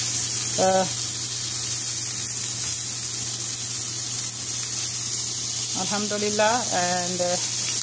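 Chapli kebabs sizzling steadily as they fry in a shallow layer of mustard oil and the fat running out of the patties, in a non-stick frying pan.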